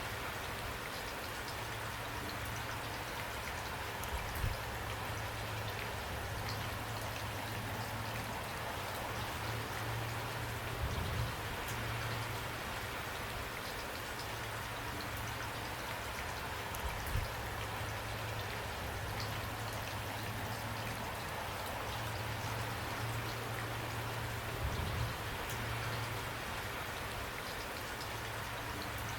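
Steady rainfall: an even hiss of rain with scattered individual drops ticking on a surface, and a few slightly louder drips or splashes now and then.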